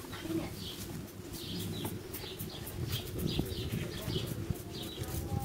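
Small birds chirping over and over, about two short chirps a second, over a low rumbling background.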